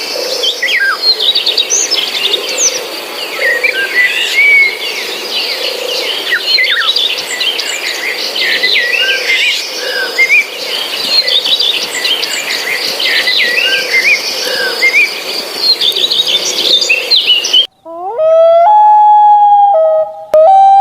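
Dense chorus of many birds chirping and whistling over one another. Near the end it cuts off abruptly, and a loud drawn-out call takes over, rising in pitch and then holding steady, broken once briefly.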